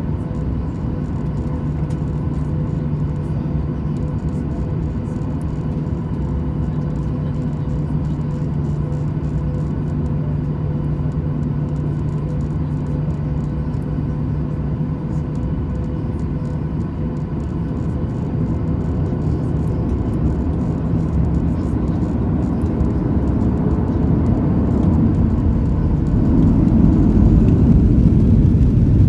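Boeing 737-800 cabin noise from its CFM56-7B jet engines: a steady rumble with a low hum, growing louder over the last ten seconds or so.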